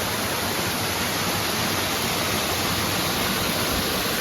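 Waterfall rushing, a steady, even roar of falling water close by.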